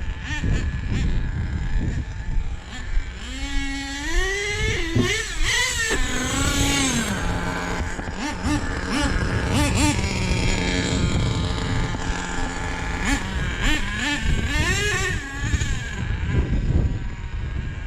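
Small nitro RC truck engine revving up and down, then running steadily for several seconds before revving again, as it is run to clear itself of excess fuel.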